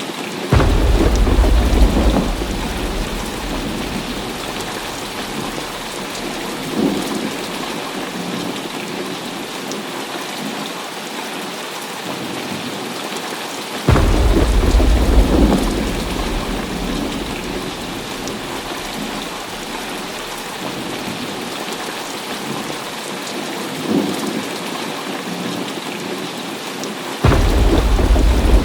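Heavy rain falling steadily, with three rolls of thunder. Each starts suddenly, about half a second in, midway and near the end, and rumbles away over several seconds.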